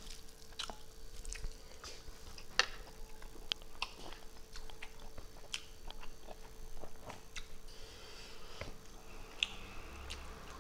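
Close-miked chewing and mouth smacking of a person eating meat, with irregular sharp clicks of a spoon against a plate.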